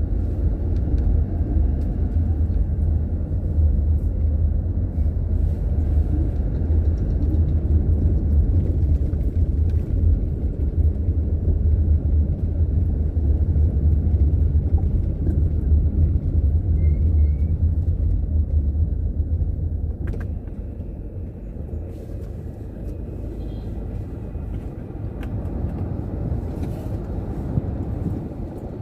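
Car driving along a street: a steady low rumble of engine and road noise, easing off about twenty seconds in.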